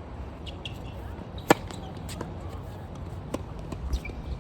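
A tennis ball struck hard by a racket, one sharp crack about a second and a half in, with a few fainter taps later on.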